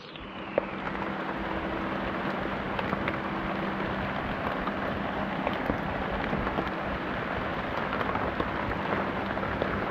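Steady rain falling, with many scattered drops ticking, rising in over the first second and then holding steady.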